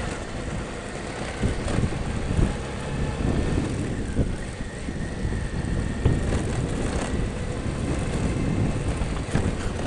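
Motorcycle riding on a rough dirt road: engine running under heavy wind noise, with irregular knocks and rattles from the bumpy surface.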